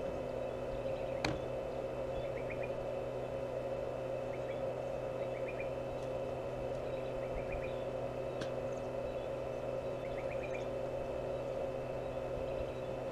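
A steady machine hum with a fixed pitch, overlaid by small groups of quick high chirps every couple of seconds and two sharp clicks, one about a second in and one past the middle.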